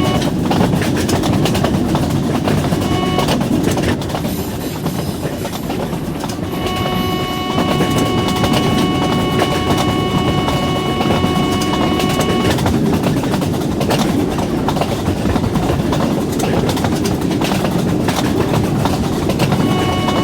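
A long train passing at speed, with continuous rumble and rapid clattering of wheels over the rails. A steady high ringing tone comes in and out, clearest in the middle stretch.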